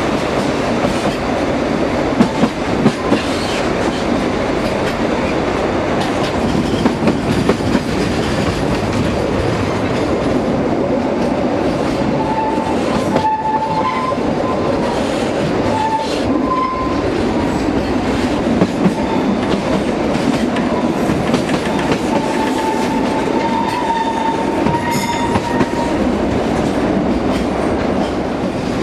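Narrow-gauge (760 mm) train running along the track: a steady rumble and rattle of wheels and carriages with clacks over the rail joints. From about midway to near the end, a thin high wheel squeal comes and goes.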